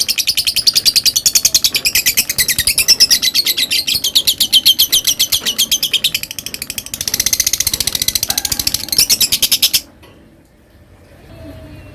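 Lovebird singing a long ngekek: a fast, unbroken chattering trill of sharp, high notes, about ten a second. It stops abruptly about ten seconds in.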